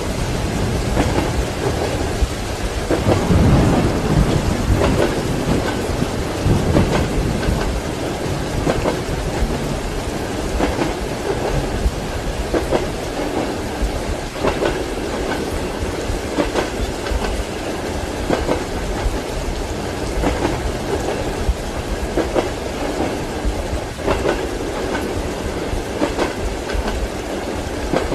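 Steady rain with the rhythmic clickety-clack of train wheels over rail joints, heard from inside a passenger carriage. A low roll of thunder swells about three seconds in.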